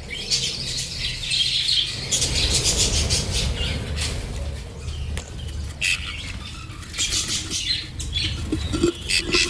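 Budgerigars squawking and chattering harshly in a scuffle between birds, with rapid clicky calls in bursts and a steady low hum beneath.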